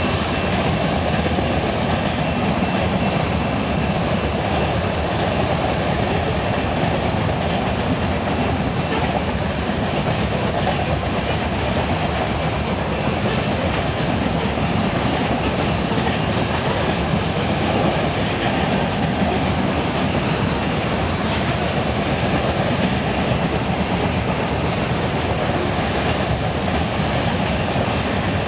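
Grain train's covered hopper cars rolling past, their steel wheels clicking over the rail joints in a steady, continuous rumble.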